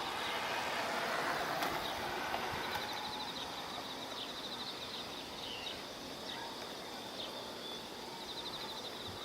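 Outdoor ambience: a steady rushing noise with insects trilling high and fast in short bursts that come and go several times.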